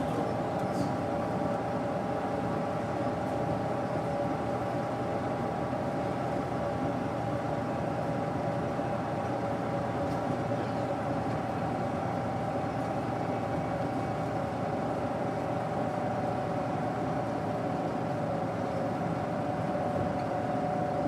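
Daewoo BS110CN bus with its Doosan GE12Ti natural-gas engine running steadily under way, heard from inside the bus: an even drone with a constant whine over it, the whine easing slightly lower near the end.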